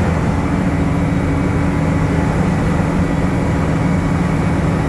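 A water truck's engine running steadily under way, a constant low drone with no change in pitch.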